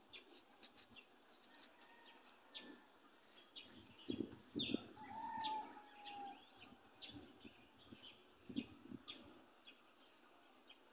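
Faint, scattered bird chirps, with one longer, slightly falling whistled note about five seconds in.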